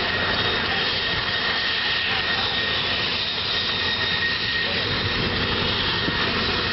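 Aircraft turbine engine running steadily, a constant rushing noise with a high whine over it.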